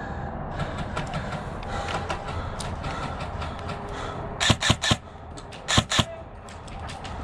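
Airsoft gun firing: a quick burst of three sharp shots, then two more just under a second later, over steady background noise with faint scattered clicks.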